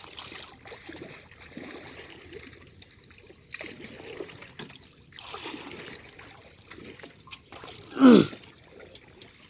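Shallow water splashing and sloshing in several swells. About eight seconds in comes a brief, loud cry from a person, falling steeply in pitch.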